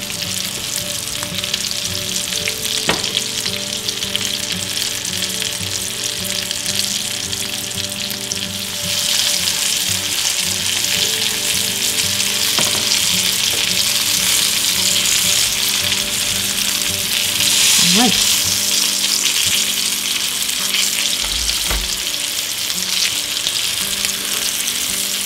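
Breaded pork schnitzels frying in hot olive oil in a pan: a steady sizzle that grows louder about a third of the way in. A few light clicks are heard as the tongs handle the cutlets.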